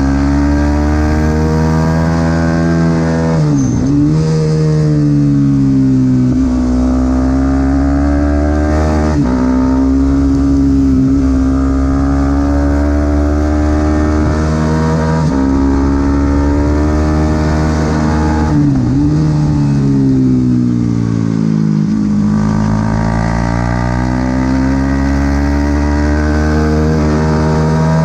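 Supersport 300 racing motorcycle engine running hard at race pace. Its pitch climbs and falls repeatedly, with sharp dips every few seconds.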